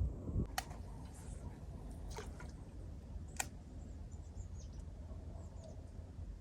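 Quiet outdoor ambience with a steady low rumble. Three sharp clicks come in the first half, and faint high bird chirps follow in the second half.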